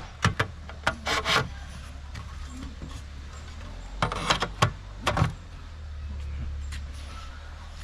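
A few short knocks and rattles of objects being handled, in small clusters, over a steady low hum.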